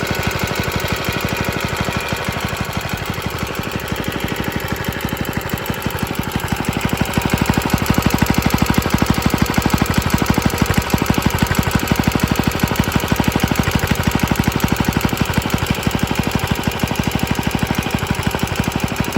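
Early Suffolk Iron Foundry Model 1A small single-cylinder engine running steadily with a rapid, rattly firing beat. It gets louder about seven seconds in.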